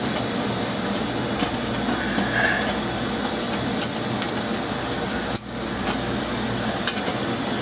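Steady mechanical hum and whir of running machinery, with a few light clicks and taps of metal dryer panels and screws being handled.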